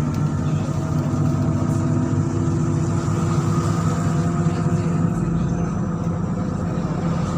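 MAZ-103 city bus running on the route, heard from inside the cabin: a steady engine and drivetrain drone with several held whining tones. The lowest rumble grows heavier about five seconds in.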